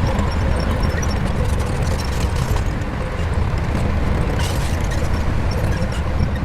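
Shantui bulldozer's diesel engine running steadily with a deep, even rumble, with faint high-pitched chirps or squeaks scattered over it.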